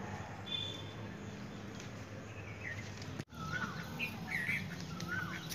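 Birds chirping in short, thin calls over a steady low background hum. The sound cuts out for an instant about three seconds in, after which the chirps come more often.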